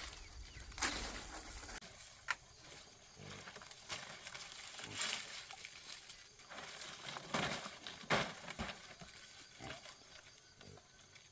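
Pigs making short, noisy grunts, several times with gaps between, and a single sharp click about two seconds in.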